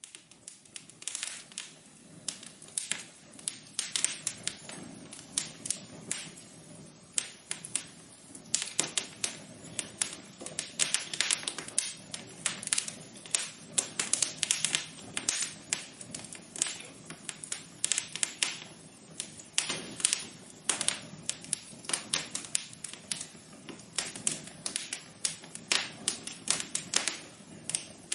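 Wood fire crackling in a fireplace: a dense, irregular run of sharp pops and snaps over a soft steady background.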